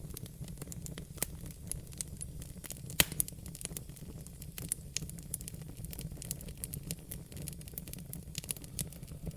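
Wood fire in a fireplace crackling, with irregular small snaps and pops over a steady low rumble of burning; one sharper pop about three seconds in is the loudest.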